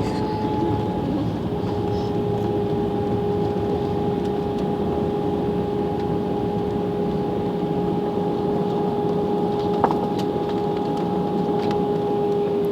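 Steady cabin noise inside a jet airliner: engine and airflow rush with two steady hum tones. There is a brief click about ten seconds in.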